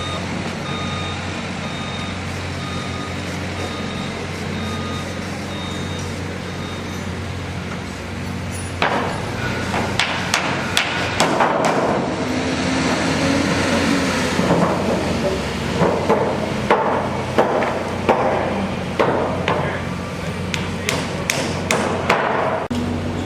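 Construction work: a truck engine runs steadily while its reversing alarm beeps about once a second for the first several seconds. From about nine seconds in, loud irregular knocks and clanks follow one another, like hammering.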